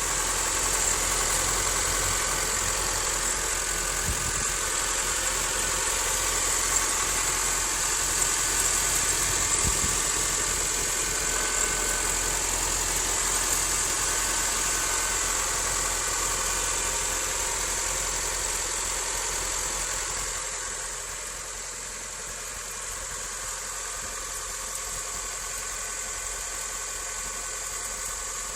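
2007 Honda Civic LX's four-cylinder engine idling just after a cold start, with a rattle that the owner cannot identify. It runs steadily and gets somewhat quieter about twenty seconds in.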